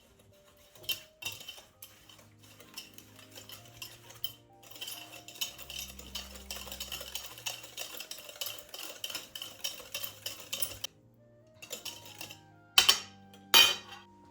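Kitchen utensils on dishes: scattered clinks, then about six seconds of quick, continuous stirring or scraping in a bowl, followed by two sharp, loud knocks near the end. Soft background music plays underneath.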